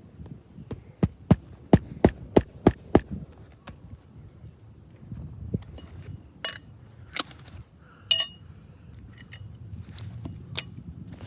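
Hand hammer driving a roofing nail, about seven quick strikes in a row a second in, then a few scattered metallic clinks.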